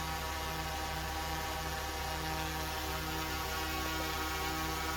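DJI Mavic 3 Classic quadcopter's propellers and motors whirring steadily as it hovers.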